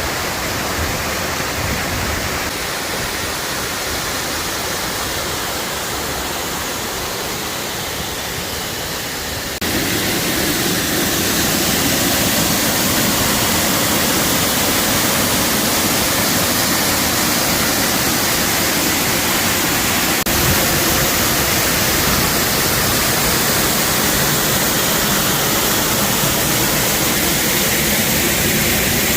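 Steady rush of the Shoji-ga-fuchi waterfall, a cascade of Yatsubuchi Falls, water pouring without a break. It steps up suddenly to a louder, brighter roar about ten seconds in.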